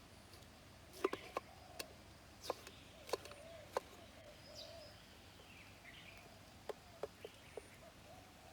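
Quiet, irregular sharp taps and clicks, about a dozen, over faint outdoor ambience with light bird chirps.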